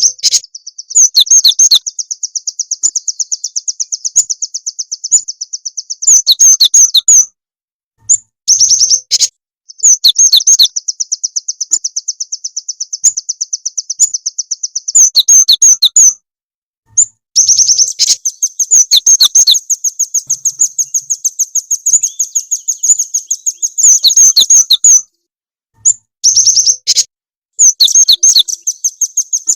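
Small songbird's high, rapid trilling song, the same note repeated many times a second in long runs of several seconds, broken by abrupt short gaps. It is played as a lure call for gelatik batu (cinereous tit) and rambatan (nuthatch).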